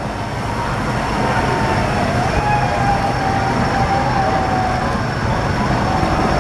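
A rider on a skycoaster-style swing ride screaming in one long wavering cry as the swing drops and sweeps, over steady fairground crowd and traffic noise.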